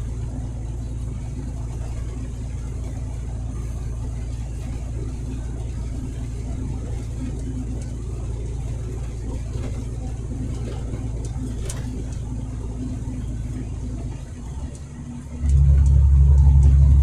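Truck engine and road noise heard from inside the cab while driving: a steady low drone that dips about fourteen seconds in, then comes back louder and deeper.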